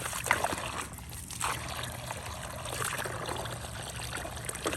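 Water running steadily and trickling into a container as it fills.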